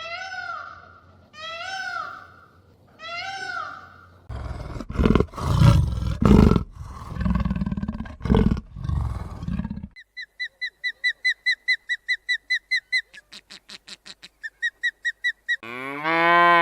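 A run of different animal calls cut one after another: four short whining calls about a second apart, then several seconds of deep roaring and grunting, then a fast series of high chirps, and the start of a cow's moo at the end.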